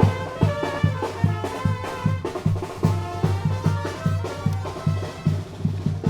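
Tamborazo band music: brass instruments playing a melody over a steady beat of bass drum strokes.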